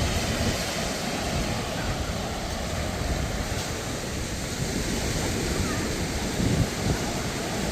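Sea surf washing onto a sandy beach, a steady rushing noise with wind buffeting the microphone and faint voices of people in the background.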